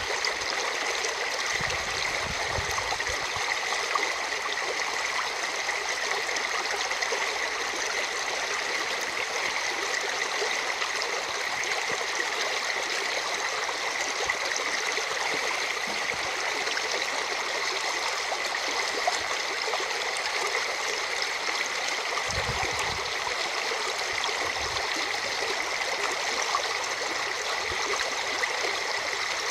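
River swollen by heavy rain, flowing with a steady, even rush of water. Brief low rumbles come twice, about 2 seconds and 22 seconds in.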